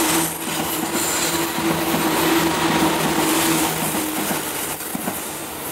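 A Seibu 10000 series 'New Red Arrow' electric limited express train passes close by, wheels rushing on the rails under a steady hum. The hum and rush fade as the last car goes by about four seconds in.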